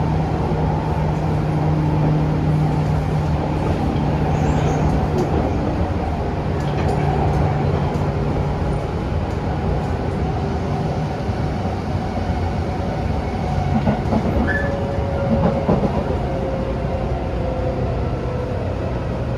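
Tobu 10000 series electric commuter train running, heard from on board: a steady rumble of wheels on rail with a low motor hum. The hum fades a little under halfway through, and a faint higher tone comes in later on.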